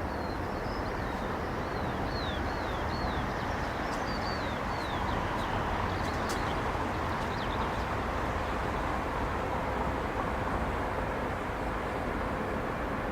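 Steady rumble of a jet airliner's engines, with a small bird chirping over it in a run of short falling notes during the first half.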